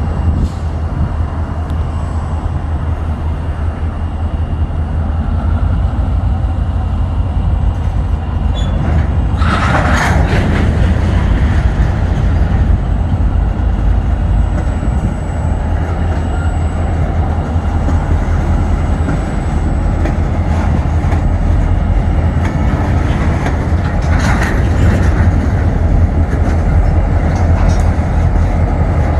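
Freight train rolling past, its wheels and cars making a steady low rumble and clatter, with a sharp metallic clank or squeal about ten seconds in and a lesser one near the end.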